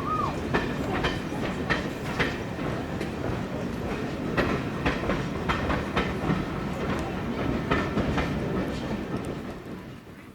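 A train running past on jointed track: a steady rumble with the clickety-clack of wheels over rail joints, fading away near the end.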